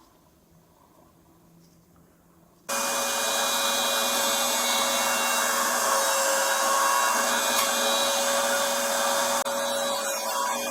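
An electric motor with a fan switches on abruptly about two and a half seconds in and runs steadily, a loud rushing of air with a constant whine over it.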